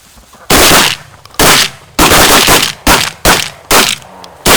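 Several hunters' shotguns firing a rapid, ragged volley at a flock of geese: about eight loud shots in four seconds, some overlapping, each with a short echoing tail.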